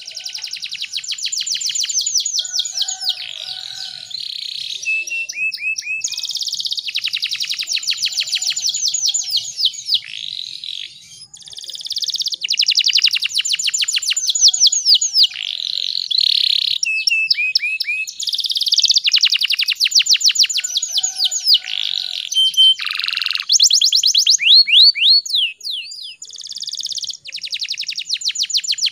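Domestic canary singing an almost unbroken song of fast rolling trills, each a rapid run of repeated notes, with short gliding whistled notes between the trills.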